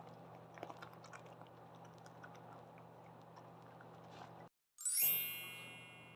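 A bright chime sound effect rings once about five seconds in and fades over about a second, after a short cut to silence. Before it, faint scattered clicks over a low steady hum.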